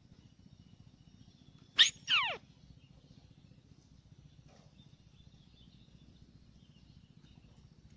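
White-browed crake giving one short, loud call about two seconds in: a sharp note followed by a falling squeal. Faint distant chirps sound in the background.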